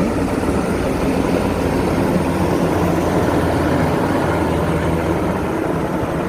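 Formation of four helicopters flying past, a steady loud drone of rotors and turbine engines.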